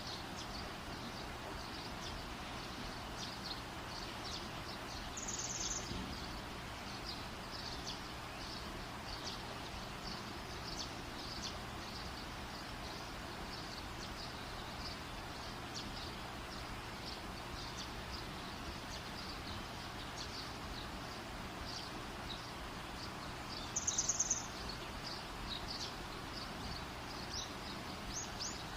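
Wood fire crackling and hissing steadily with many small pops. A brief high-pitched pulsed chirp comes twice, about five seconds in and again near the end.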